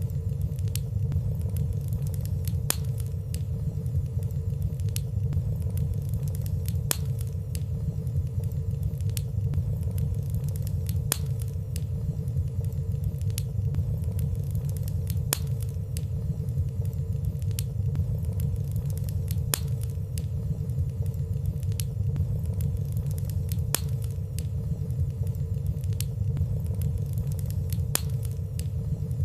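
Wood fire burning in a fireplace: a steady low rumble of flames with frequent light crackles and ticks, and no loud pops.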